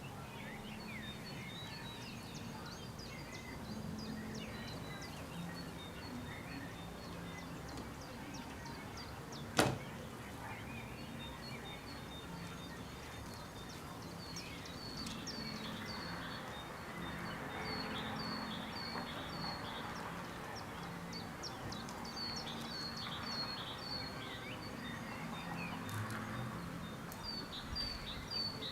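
Small birds chirping, with many short high notes repeated in quick runs, over a faint low steady hum. A single sharp click about ten seconds in.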